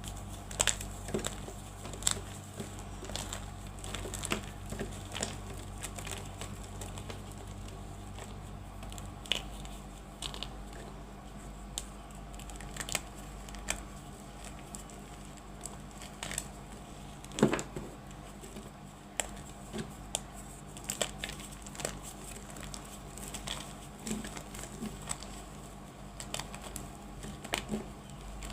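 Blocks of reformed gym chalk being crushed, giving irregular crisp crunches and crumbling crackles, the loudest about 17 seconds in.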